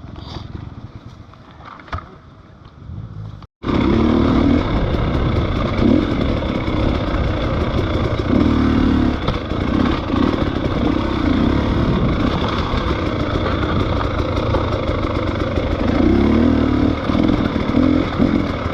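A motorcycle being ridden, its engine running under way with the rush of motion, rising and easing with the throttle. It cuts in abruptly about three and a half seconds in, after a quieter stretch with a few faint clicks.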